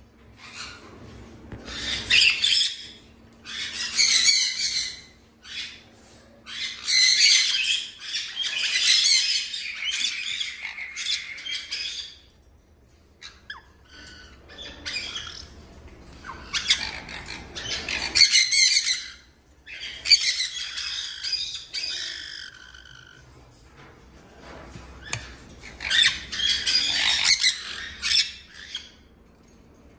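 Parrots squawking in harsh, raspy calls that come in bursts of one to several seconds, with brief pauses between them.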